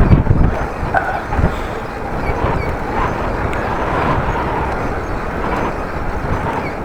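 Wind buffeting the microphone of a camera in a waterproof case on a moving bicycle, a low rumbling noise that is heaviest for the first second and then settles to a steady rush.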